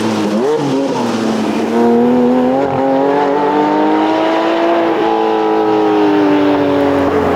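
Porsche Cayman GT4's flat-six engine under load. Its pitch dips and blips about half a second in, then climbs steadily as the car accelerates, and levels off, easing slightly near the end.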